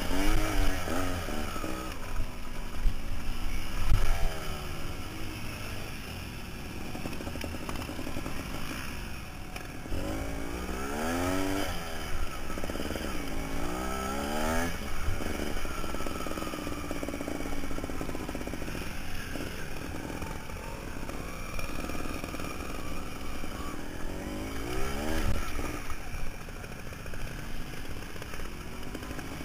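Trial motorcycle engine revving in repeated surges, its pitch rising and falling as the throttle is opened and closed over rough ground. The surges are loudest in the first few seconds.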